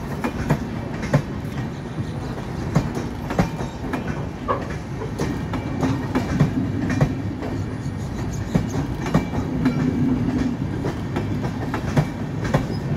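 Passenger train coaches rolling past, a steady rumble with irregular clacks of the wheels over the rail joints.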